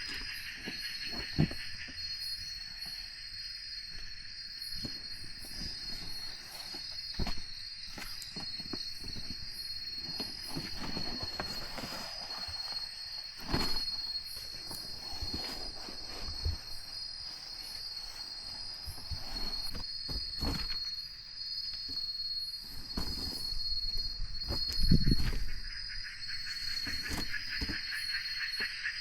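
Forest insect chorus: a steady high-pitched trill of crickets or cicadas. Scattered short clicks and knocks are heard over it, with a louder low thud about 25 seconds in.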